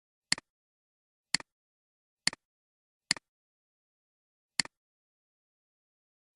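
Five sharp double clicks, spaced about a second apart with a longer gap before the last, and dead silence between them.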